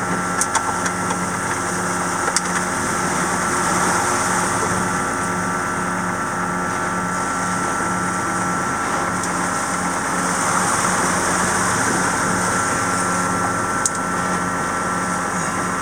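A boat's engine running steadily, a constant hum with a faint regular pulse. There are a few light clicks and knocks about half a second in, near 2.5 s and near the end.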